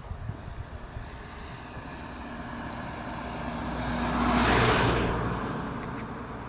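A car drives past, its engine hum and tyre noise building for a few seconds to a peak about four and a half seconds in, then fading away.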